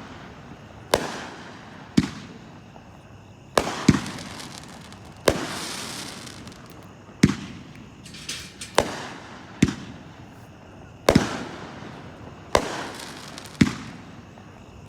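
A 'Zombies Awaken' 16-shot consumer firework cake firing its shots one after another. There are about a dozen sharp bangs at uneven intervals, some in quick pairs, each trailing off over a second or so.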